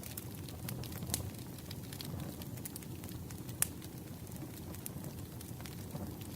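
Campfire burning, a steady low rumble of flames with irregular sharp crackles and pops of burning wood, one louder pop about three and a half seconds in.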